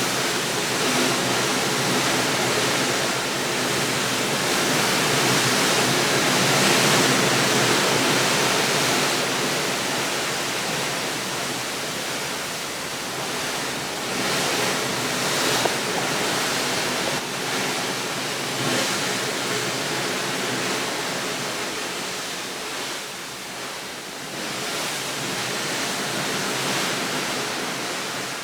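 Steady rushing of water, slowly swelling and easing in loudness, with no distinct events.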